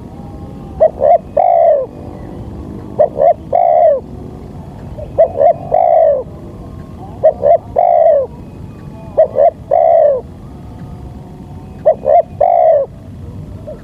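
Spotted dove (tekukur) cooing: a phrase of two short notes and a longer falling coo, repeated about every two seconds, six times.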